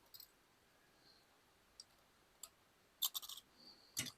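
Small metal carburetor parts clicking and scraping as they are handled and fitted together. There are a few light ticks, a quick run of clicks about three seconds in, and a sharper click near the end.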